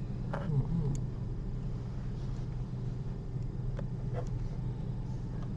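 Steady low hum of room noise, with a few faint short clicks about a second in and again around four seconds in.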